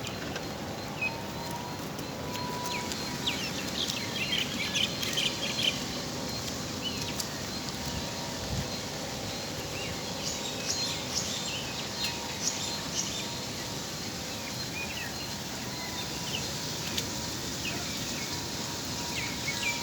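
Steady rain falling, with birds chirping now and then over it.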